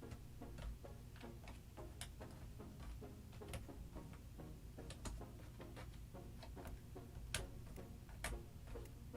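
Jigsaw puzzle pieces being handled and set down on a table: faint, irregular clicks and taps, one every second or so.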